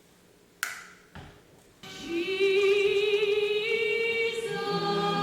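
Two sharp hits about half a second apart, then choral music starts about two seconds in: sustained sung chords with a high held note wavering in vibrato.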